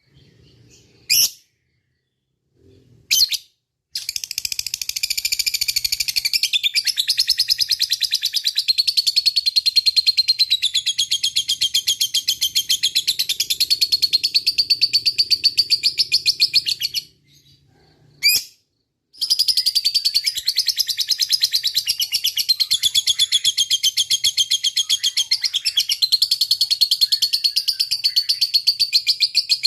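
Lovebird singing its long, rapid chattering trill (ngekek). Two short calls open the passage, then a trill lasting about thirteen seconds, a brief pause with one call, and a second long trill.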